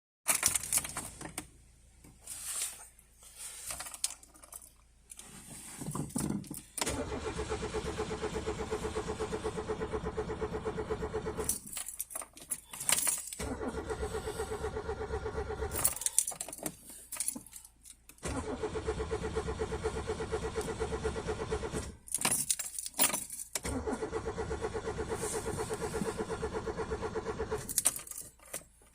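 Keys jangling and clicking, then a 1987 Peugeot 205 1.4's carburettor X-series petrol engine is cranked on the starter in four bursts of about three to four seconds each, with pauses between, and does not catch. It is a hard cold start after three months of standing, with the choke not pulling fully on.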